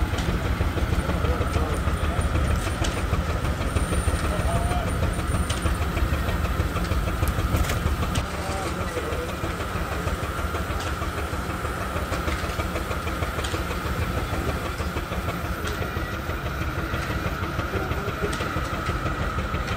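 Steam traction engine running a belt-driven sawmill: a steady low rumble with a steady high whine over it. It eases slightly about eight seconds in.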